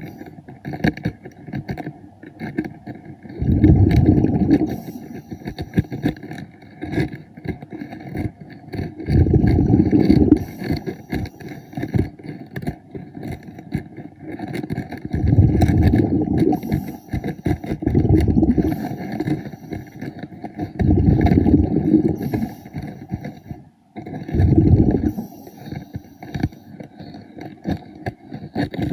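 Underwater diver's breathing: exhaled air bubbles bursting from the breathing regulator in loud, low rumbling gushes of one to two seconds, about every five or six seconds. Faint crackling and clicking fill the gaps between breaths.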